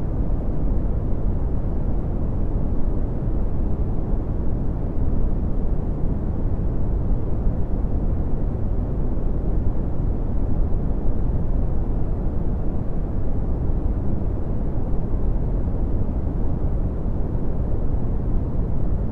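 Red (Brownian) noise: a steady, deep rumbling hiss, loudest in the bass and falling away toward the treble, with no changes or events.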